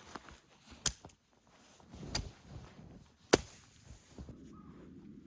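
Wood being chopped: three sharp chopping strikes about a second apart, the last the loudest.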